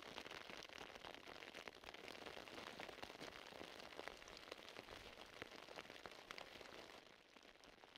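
Steady rain falling on a lake surface: a soft, even hiss full of small ticks from single drops. It gets quieter about seven seconds in.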